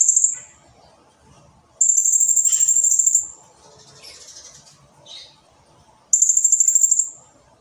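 Blue-crowned hanging parrot (serindit) singing long, dense, high-pitched trills made of rapid pulses. Two full trills, each lasting about a second, come a few seconds apart, with the tail of another right at the start.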